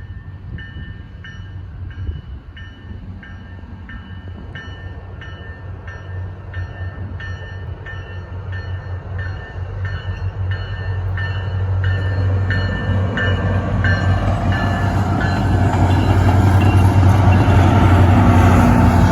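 A railroad crossing bell ringing about one and a half strikes a second as a train approaches, the train's rumble growing steadily louder until it drowns out the bell near the end.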